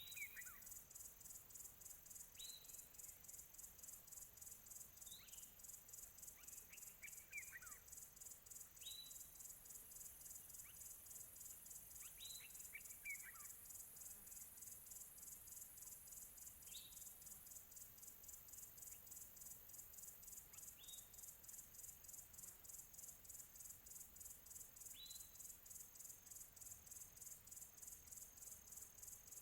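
Faint outdoor ambience: a steady, high insect chorus in rapid, even pulses, with a bird's short chirps every few seconds, each dropping in pitch and a few trailing off in quick falling trills.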